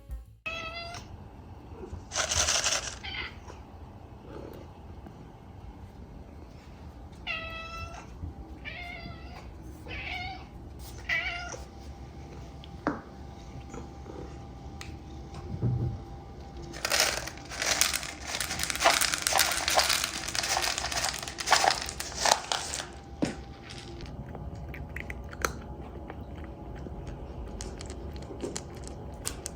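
A domestic cat meowing several short times, with a stretch of crinkling and crunching from a dry cat-food bag and kibble a little past the middle.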